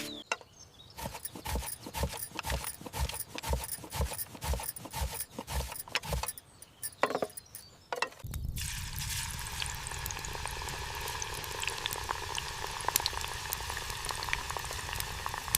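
A knife chopping on a small cutting board, about two to three strokes a second, as banana is sliced. A little past eight seconds this gives way to a steady sizzle with crackles as the slices fry in hot oil.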